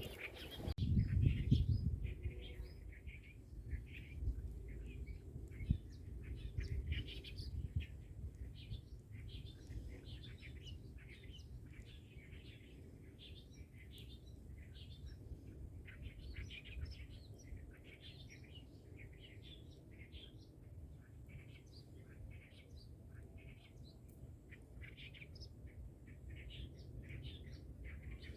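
Birds chirping continuously in quick short calls, over a steady low rumble.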